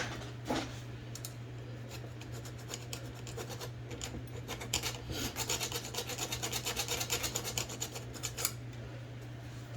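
Hand file rasping back and forth on metal, filing away a rivet to free a part of an IBM Selectric II typewriter. The strokes speed up to about five a second midway, then slow again.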